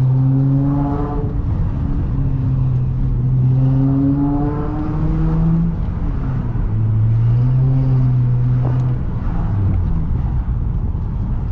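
Acura TL's V6 engine pulling under acceleration through the gears of its six-speed manual: the engine note climbs in pitch, drops at an upshift and climbs again, with drops about a second in, around six seconds in and around nine seconds in, then holds steady near the end.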